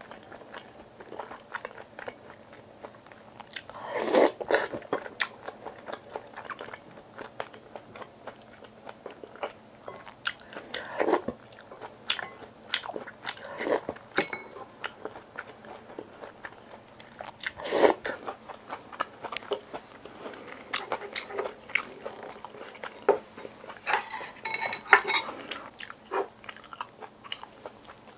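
Close-miked chewing and biting of food, with bursts of sharp crunchy clicks at intervals; the loudest comes about two-thirds of the way through.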